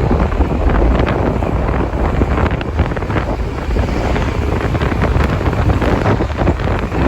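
Wind buffeting the microphone: a loud, steady low rumble with crackles.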